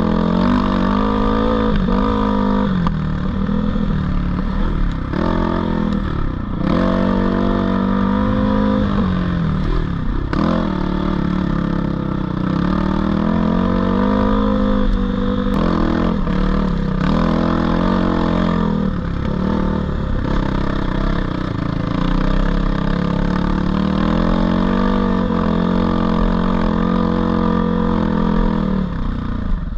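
GPX 450 four-stroke dirt bike engine running under ride load, its pitch rising and falling with the throttle and dipping sharply several times as it comes off the gas and shifts.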